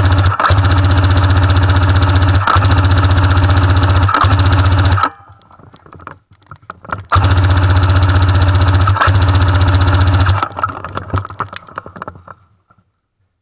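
Airsoft M60 firing long full-auto bursts, a fast, even buzzing rattle: one burst cuts off about five seconds in, and after a pause of about two seconds a second burst runs for about three seconds.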